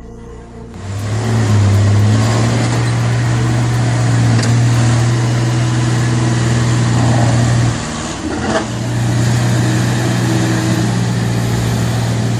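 Heavy truck engine running hard at a steady pitch under load. It drops off briefly about eight seconds in, with a single sharp knock, then picks up again.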